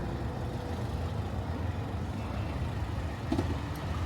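Steady low rumble of a motor vehicle, with a brief click about three seconds in.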